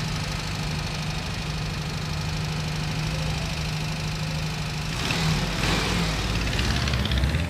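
Car engine running as the car approaches along a gravel lane, with a steady hum that grows louder from about five seconds in.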